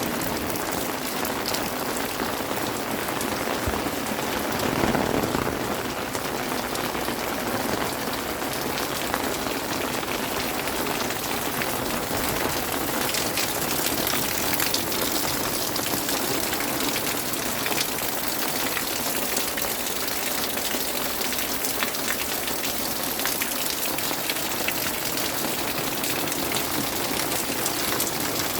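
Steady rain falling on surfaces, a dense patter of drops, with a brief louder swell about five seconds in.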